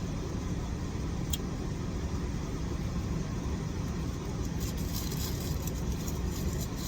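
Car engine idling, a steady low rumble heard from inside the cabin, with a sharp click about a second in and faint clicks in the second half.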